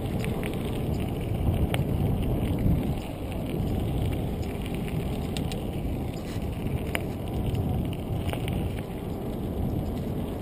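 Riding noise from a bike ride: wind rumbling on the microphone and rolling noise, with scattered light clicks and rattles.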